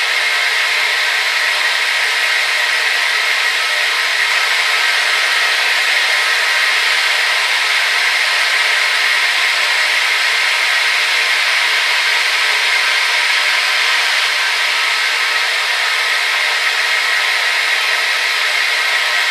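Hair dryer running steadily, an even rushing hiss of air and motor with a faint whine, played as white noise.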